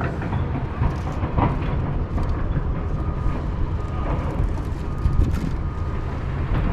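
Steady low rumble of a towboat's heavy diesel engines pushing a barge past on the river.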